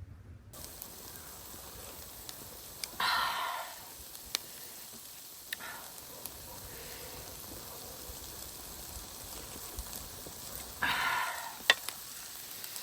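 Food frying in a hot pan: a steady sizzle with scattered pops and crackles. Two louder hissing surges come about three seconds in and again near the end.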